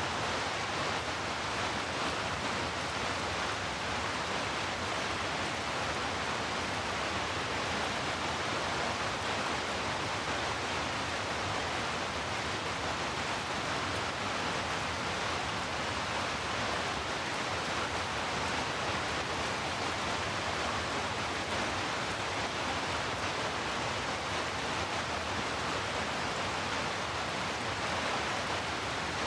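Heavy rain falling as a steady, even rush of noise, with no single drops, thunder or other events standing out.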